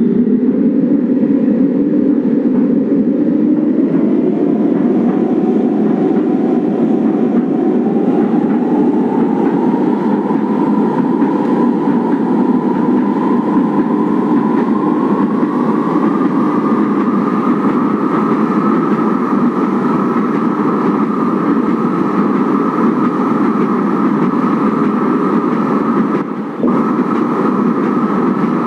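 Kinki Sharyo–Nippon Sharyo 1200-series light rail train running. Its motor whine rises steadily in pitch over the first fifteen seconds or so as the train gathers speed, then holds level at speed, with a brief drop in level near the end.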